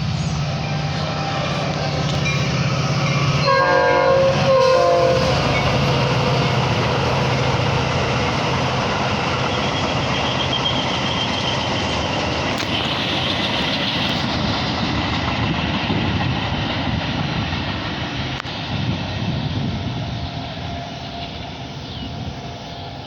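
Diesel-hauled train passing close by: the locomotive sounds two short horn blasts about four seconds in, then a long steady rumble of the cars going by, which fades over the last few seconds.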